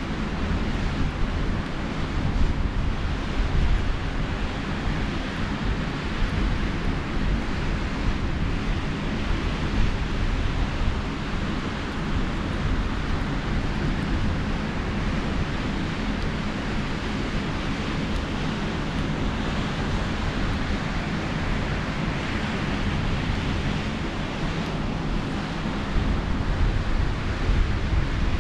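Sea waves washing on a beach, with wind buffeting the microphone as a steady low rumble.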